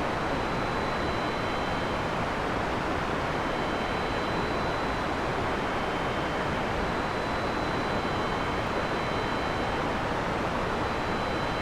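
Heavy rain falling steadily, a dense, even hiss with no thunder in this stretch. A faint thin high tone sits over it.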